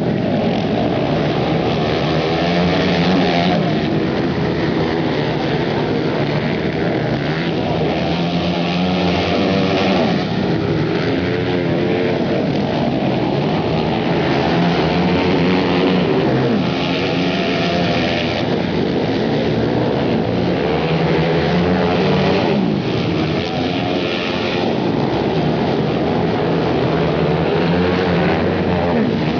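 Several flat-track racing motorcycles running together, their engines rising and falling in pitch every few seconds as the riders throttle off and back on.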